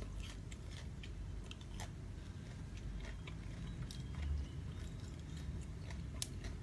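A person chewing and biting raw shrimp close to the microphone: scattered small clicks and mouth sounds, with a brief low thump about four seconds in.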